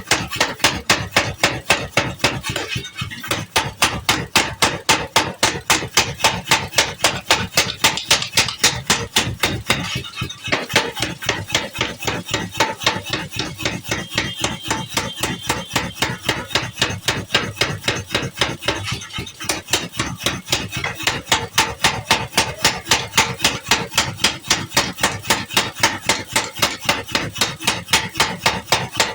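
Mechanical power hammer pounding a plow part in rapid, even blows, about four a second, with a few short breaks as the workpiece is moved. It is flattening and drawing out the metal.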